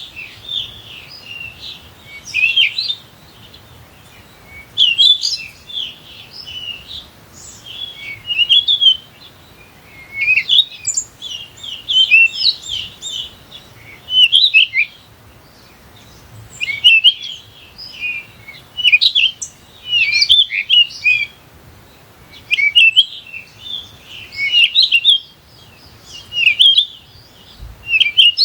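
Birds singing: bursts of quick, high chirping phrases that repeat every two seconds or so, with short pauses between them.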